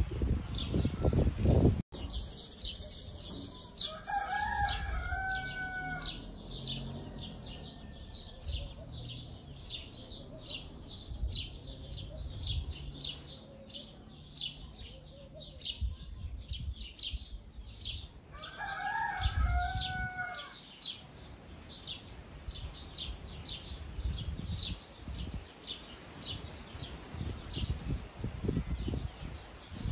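Birds: a steady run of high, short chirps, two or three a second, with a longer, lower two-toned call twice, a few seconds in and again about eighteen seconds in.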